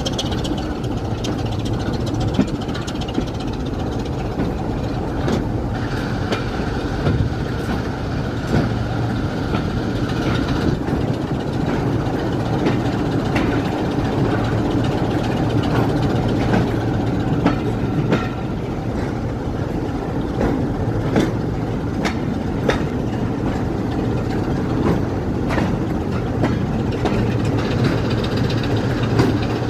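A train running along the rails: steady running noise with a low hum, and sharp clicks of the wheels passing over rail joints every second or two.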